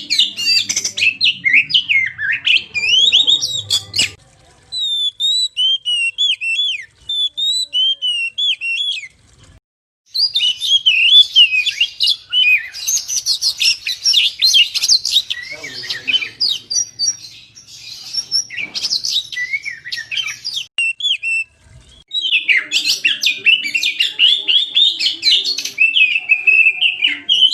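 Oriental magpie-robin (kacer) singing a fast, varied run of whistles and chirps in long bursts, with brief breaks between them.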